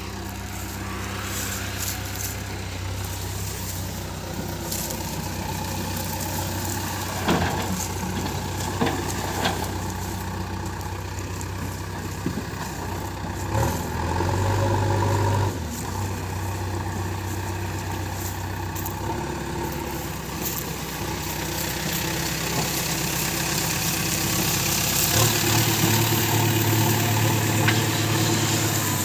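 JCB backhoe loader's diesel engine running steadily, working harder for a moment around the middle and again near the end, with a few sharp knocks about a quarter of the way in.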